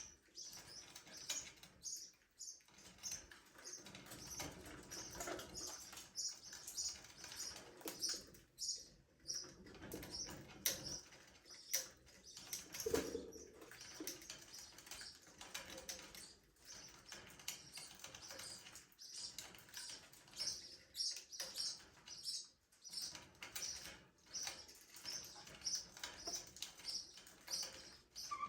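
Budgerigars chirping continuously in a small aviary: a steady stream of short, high-pitched chirps, several a second, with scattered sharp clicks and rustling.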